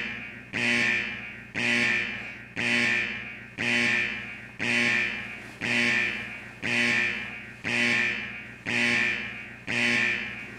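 Alarm clock's alarm going off: a ringing chime repeating about once a second, each note starting sharply and fading away.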